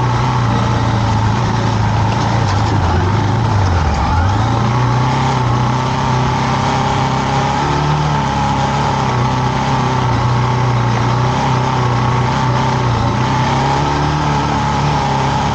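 KTM adventure motorcycle engine running steadily, its pitch dipping briefly about four seconds in and then coming back up.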